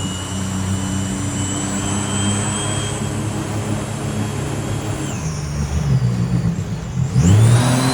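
Boat engine running hard under load while towing a sunken minivan on a strap, its pitch rising sharply near the end as it is throttled up further.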